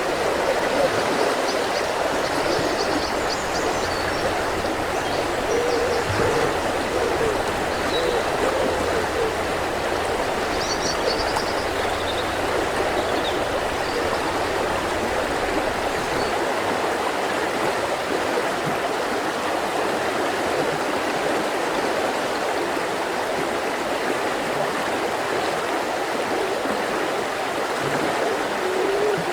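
Mountain river flowing steadily over rocks. Short high bird chirps come twice in the first half, with a few low hooting calls in the first few seconds.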